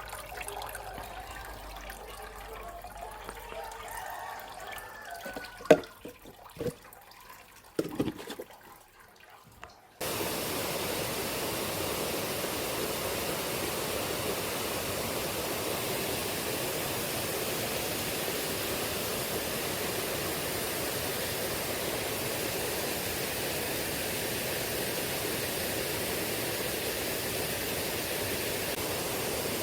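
Shallow river current rushing steadily, starting abruptly about ten seconds in. Before that, a quieter stretch with a few sharp knocks.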